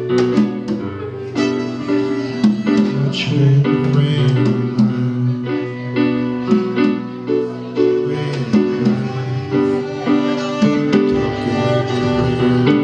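A live band playing an instrumental passage: acoustic guitar strummed and plucked under sustained melodic instrument lines.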